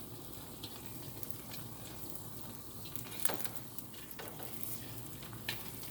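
Slices of bánh tổ (sticky rice cake) sizzling steadily as they fry in hot oil in a pan, with a couple of sharp ticks.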